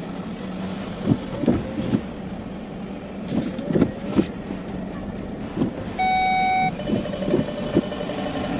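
Vehicle traffic running, with a string of short knocks. About six seconds in there is a loud single-pitch beep lasting under a second, then a steady whine.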